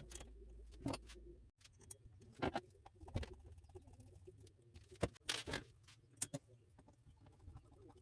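Irregular light clicks and clinks of small metal parts and tools being handled, a few louder taps among them; a low background hum cuts off about a second and a half in.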